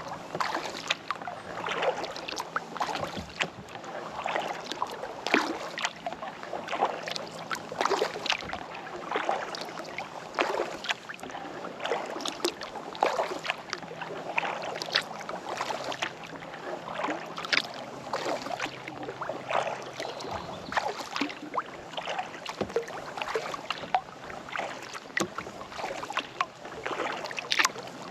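Kayak paddle strokes in lake water, with continual small splashes and drips from the paddle blades.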